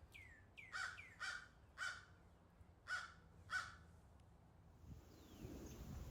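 Birds calling outdoors: five short, harsh calls spread over about three seconds, with a few quick whistled notes dropping in pitch near the start.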